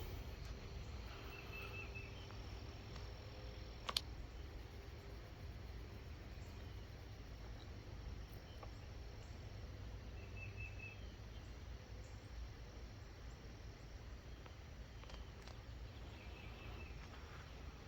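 Quiet outdoor ambience: a steady low rumble, with a short high trill of chirps heard three times and a single sharp click about four seconds in. No thunder clap.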